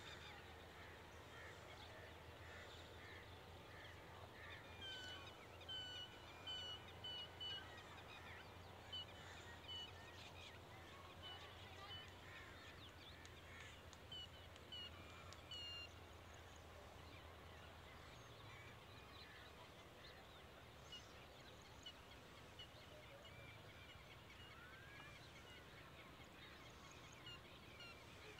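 Faint wild bird calls: short high chirps repeated in quick runs, clustered in the first half, over quiet open-air background.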